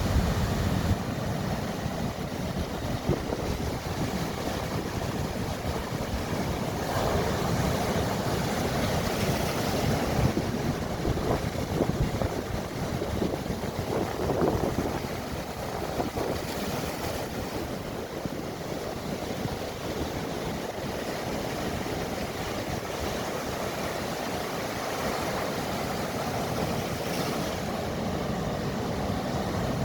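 Mediterranean Sea waves washing in steadily, swelling a little about a third of the way in and again near the middle, under a constant low rumble.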